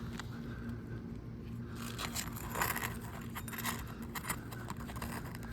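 Asphalt roofing shingle being pried up off its nail, scraping and crackling with short clicks from about two seconds in, loudest a little later, as the shingle tears and pulls through around the fastener.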